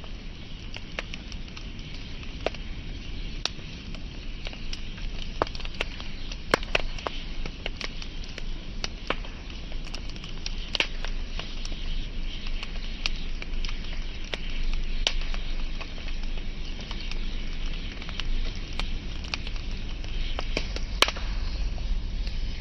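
Wood fire burning with irregular sharp crackles and pops over a steady low hiss and rumble of the flames.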